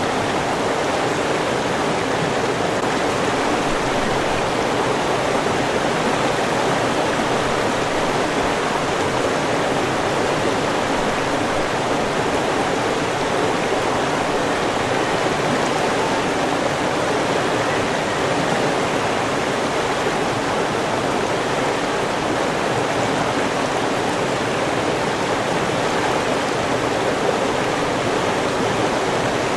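River water rushing steadily, an even churning noise with no change in level.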